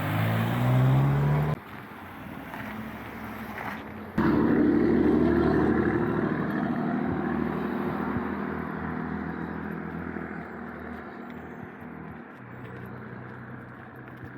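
Road vehicle engine noise: an engine rising in pitch as it speeds up, cut off suddenly, then a louder vehicle starting abruptly about four seconds in and slowly fading.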